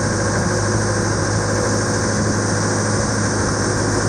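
Motorboat engine running steadily, heard on board the boat, a constant low hum over a steady hiss.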